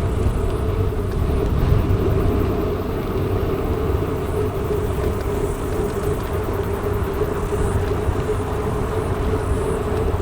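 Mountain bike rolling steadily along: a continuous rumble of tyres and rushing air.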